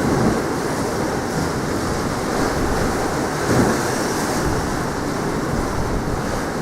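Strong wind buffeting the microphone in gusts, with sea surf washing underneath.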